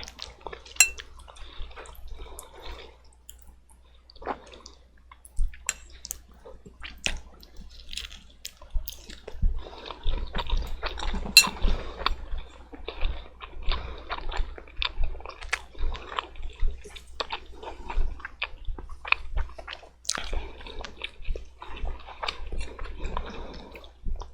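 A person eating black bean noodles up close: wet chewing, slurping and lip smacks, with many short sharp clicks throughout.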